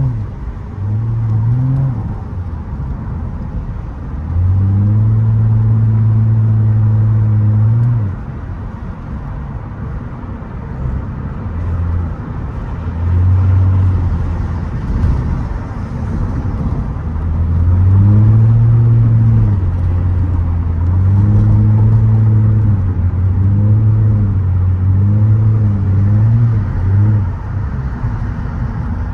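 Straight-piped Nissan Altima exhaust running under light throttle. Its note is held steady for a few seconds, then rises and falls repeatedly in short swells through the second half.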